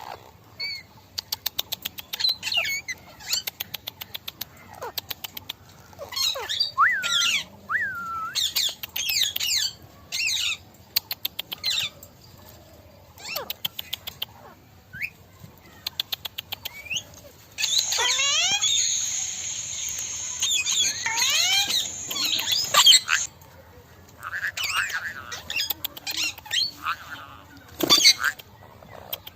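A group of parrots squawking and chattering in bursts of shrill calls that slide up and down in pitch, with short pauses between the bursts.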